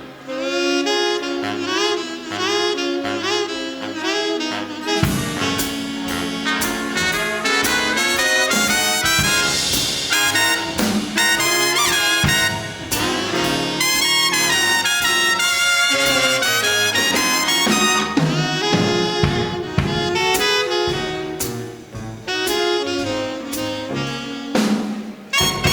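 Big band playing an instrumental break in a swing tune: brass and saxophones over drum kit.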